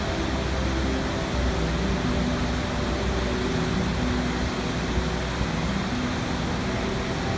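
Steady rushing water, an even hiss with no breaks, over soft background music with held tones.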